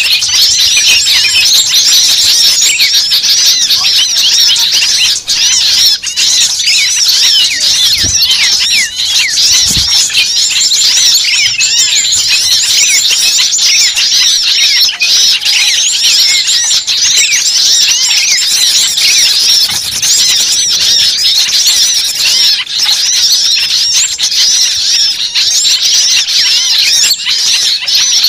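Dense chorus of many small birds calling at once, with rapid, shrill, overlapping chirps and short rising and falling notes and no break. This is a bird-trapping lure recording of noisy, agitated small forest birds.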